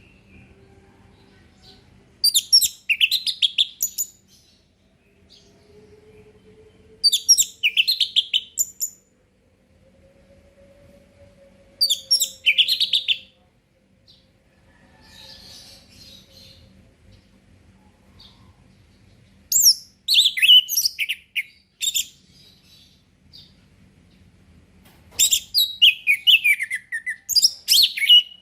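Orange-headed thrush singing its full, open 'ngeplong' song: five phrases of quick, varied whistled notes a few seconds apart. The last phrase, near the end, is the longest.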